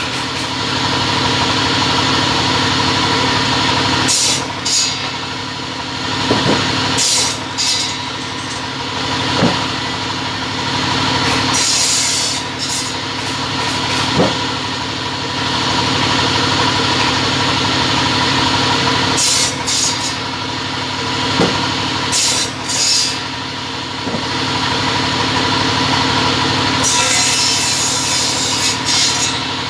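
Double-head cutting saw running steadily, with several short bursts of cutting noise as the blades go through the stock, the longest near the end.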